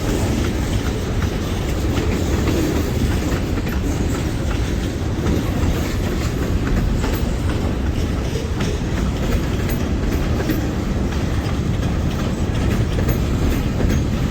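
Freight train cars rolling past at close range: a steady rumble with steel wheels clicking over the rail joints.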